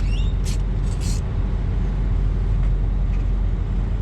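A diesel engine idling with a steady low hum, with two short hissy bursts in the first second or so.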